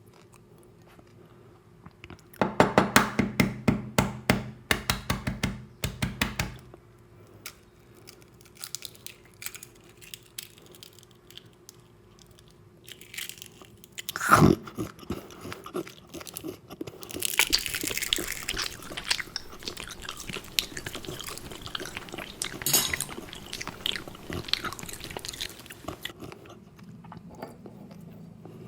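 Close-miked ASMR eating sounds of watermelon and raw-egg soup: a quick run of loud crunching bites in the first few seconds, quieter chewing with one loud sharp bite about halfway, then a busier stretch of wet crunching and chewing.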